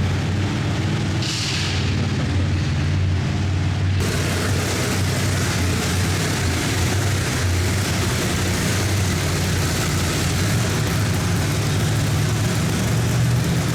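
Monster truck engine running loudly and steadily, with a deep, rumbling drone under a wide rush of noise; the sound shifts abruptly about four seconds in.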